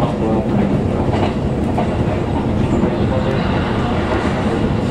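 Electric commuter train running at speed, heard from inside the passenger car: a steady rumble of wheels on rail, with a few clacks as the wheels pass over rail joints.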